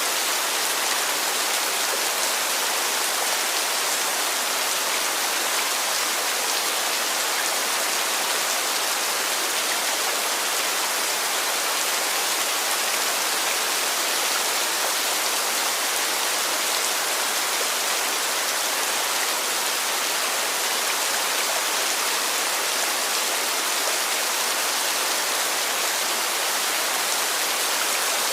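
Heavy rain falling, a steady dense hiss of drops without breaks or changes.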